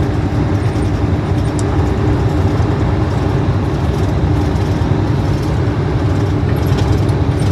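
Steady road and engine noise heard from inside a moving car, a low rumble with no change.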